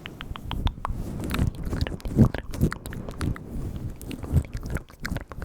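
Close-miked ASMR mouth sounds: rapid wet clicks and smacks of the tongue and lips, several a second, with soft low thuds mixed in.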